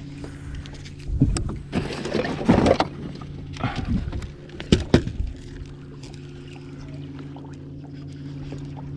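Steady hum of a bass boat's trolling motor, with loud splashing bursts between about one and five seconds in from a hooked smallmouth bass thrashing at the surface.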